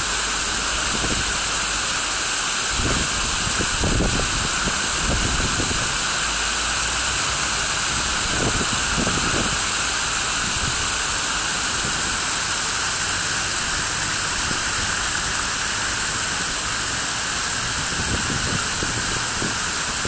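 Steady rush of falling water from a fountain or water feature, with irregular low rumbles mixed in.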